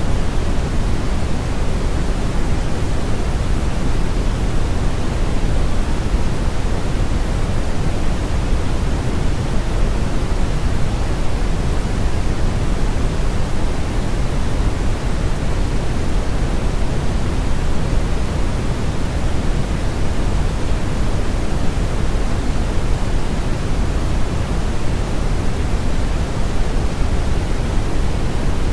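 Brown noise: a steady, even hiss weighted heavily toward the low end, a deep rumble with little treble, with no change in level or character.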